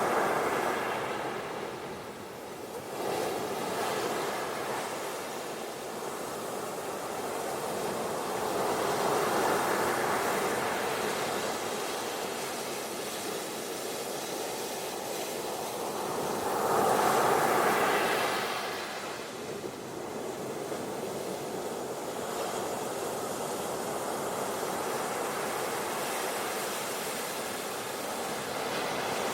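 Ocean surf washing onto a beach: a steady rushing wash that swells and ebbs as waves come in, with the biggest surge about seventeen seconds in.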